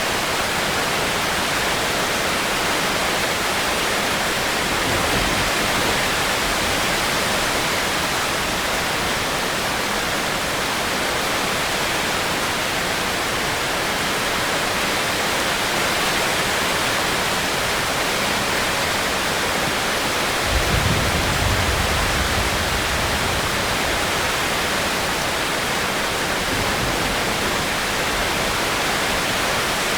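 Steady heavy rain, an even hiss. About two-thirds of the way through, a brief low rumble rises under it for a couple of seconds.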